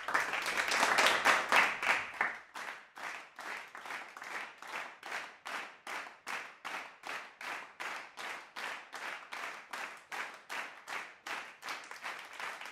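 Clapping: a dense burst of applause for about two seconds, then steady rhythmic clapping at about three claps a second.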